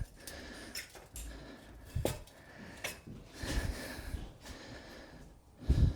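Heavy metal aircraft parts being handled and set in place on a workshop bench: a few scattered clinks and knocks, with low thumps.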